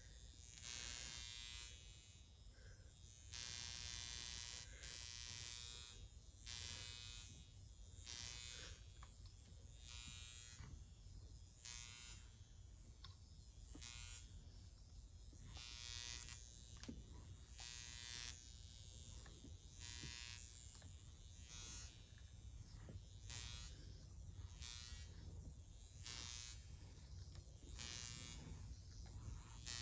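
High-frequency facial wand with a comb electrode buzzing in repeated bursts, roughly every one to two seconds, as it is worked over the scalp at the crown. A faint steady hum runs between the bursts.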